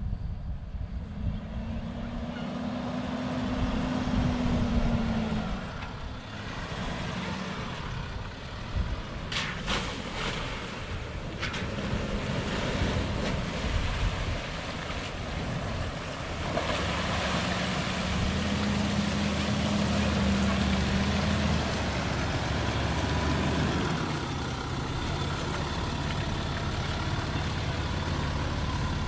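Land Rover Discovery 4 engine pulling the vehicle through a water crossing, its revs rising and falling a couple of times, with water churning around it and a few sharp knocks about ten seconds in.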